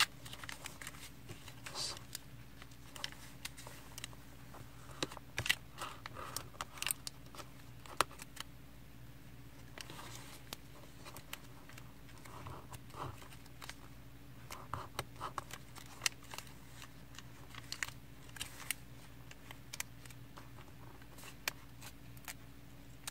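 A sheet of origami paper being folded and creased by hand: scattered soft crinkles, rustles and light taps, over a faint steady hum.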